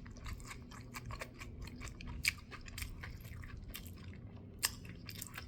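A person chewing a mouthful of spicy fried chicken sandwich: soft, irregular crunches and mouth clicks, two a little louder, a bit over two seconds in and near the end.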